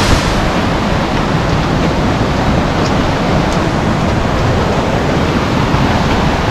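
Loud, steady rush of water in a mountain stream below a waterfall.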